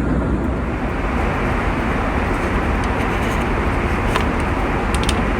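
Steady, loud rumble of an airliner's jet engines and airflow heard inside the passenger cabin.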